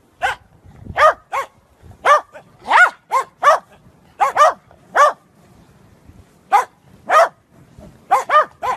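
Small dogs barking, about fifteen short, high-pitched barks, some in quick pairs, with a brief lull past the middle.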